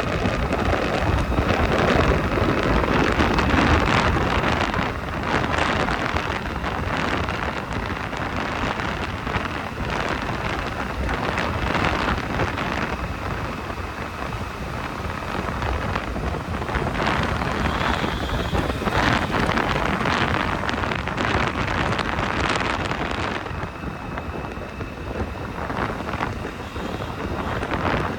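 Wind rushing over the microphone of a moving motorbike, mixed with road and traffic noise in light rain. The sound swells and eases irregularly throughout.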